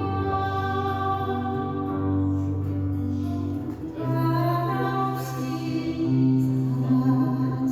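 A woman singing a slow Korean folk ballad in long held notes over a steady instrumental accompaniment.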